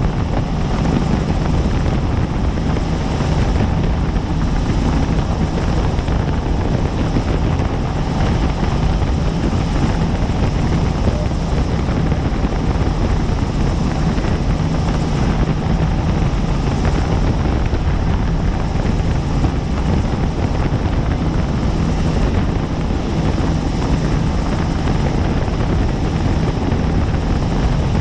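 Helicopter in flight: steady rotor and turbine noise with a low, even beat.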